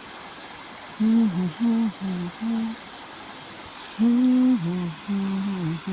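A person humming the tune of a worship song: two short phrases of held and gliding notes with a pause between them, with no words.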